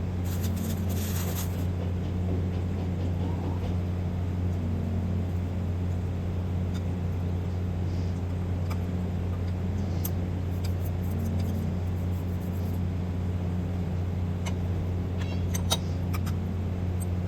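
Steady low machine hum, unchanging in pitch and level, with a few short light clicks scattered through it.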